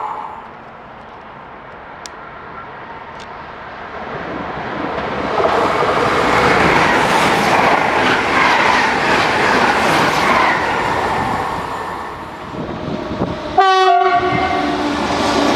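A double-deck electric passenger train (Regio 2N) passes at speed on the near track, its running noise building to a steady rush and then fading. Near the end a short, loud train horn blast sounds, followed by the steady hum of an approaching electric locomotive.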